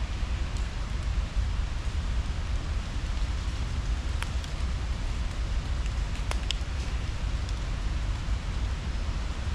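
Steady outdoor park ambience: an even hiss over a low, unsteady rumble, with a few sharp clicks about four and six seconds in.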